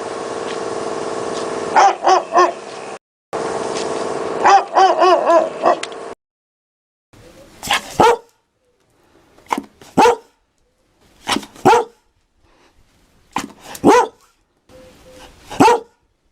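Dog barking. First comes a recording with a steady hum behind short, high yelping barks. Then a different recording takes over, with sharp barks, singly or in pairs, about every two seconds and silence between them.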